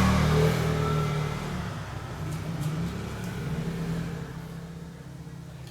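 A motor vehicle engine running low and fading away over a few seconds, as if passing by and receding.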